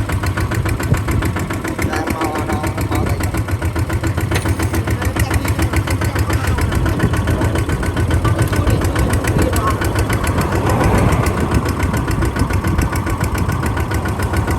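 Kubota RT140 DI single-cylinder diesel engine running steadily, with a rapid, even firing beat.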